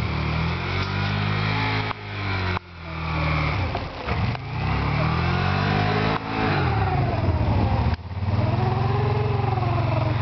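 Can-Am Spyder roadster's V-twin engine accelerating hard, its pitch climbing in several runs broken by sudden breaks.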